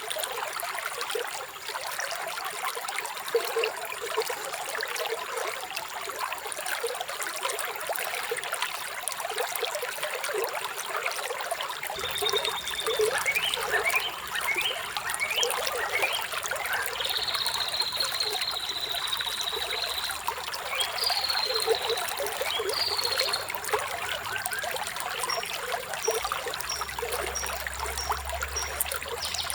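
Running water trickling and splashing steadily, joined about halfway through by birds chirping: quick rising chirps, then a long high trill, then a row of short high peeps near the end.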